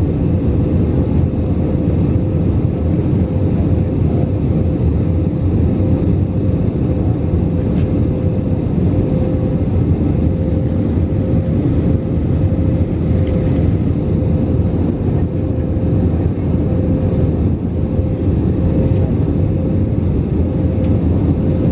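Airbus A319 cabin noise during approach: the steady roar of the jet engines and rushing airflow, with a steady mid-pitched hum running through it.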